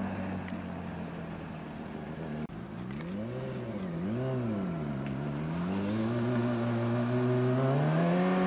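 Yamaha R1 inline-four engine idling steadily. About two and a half seconds in the sound breaks off sharply, then comes back with two quick throttle blips and low-rev running, the revs climbing near the end.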